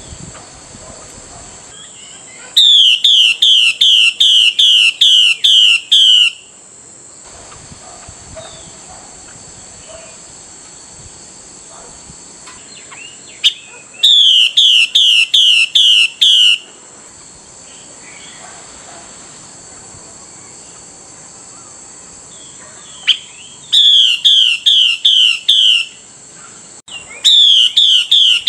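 Female Chinese hwamei giving her call to the male: loud bouts of quick, evenly repeated downslurred notes, about three a second. There are four bouts, starting a few seconds in, about halfway, and twice near the end, with only a faint steady hiss between them.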